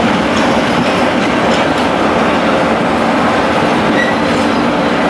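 Railway train running past, steel wheels loud and steady on the rails, with a short high wheel squeal about four seconds in.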